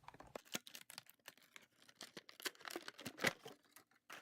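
Irregular crinkling, rustling and clicking of small plastic toy figures and their packaging being handled, loudest about three seconds in.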